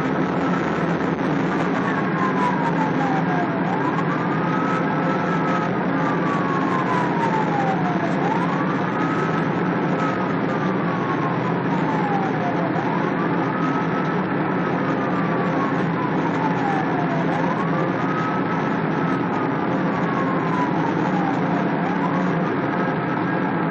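Police siren sounding a slow wail, each cycle rising quickly and falling slowly, about five cycles, over steady, loud vehicle engine and road noise.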